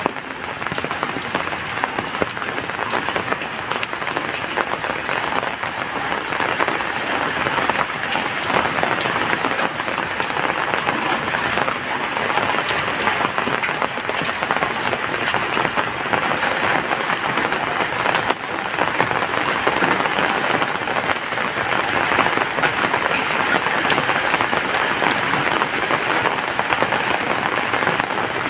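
Heavy rain falling steadily, a dense, even patter of raindrops.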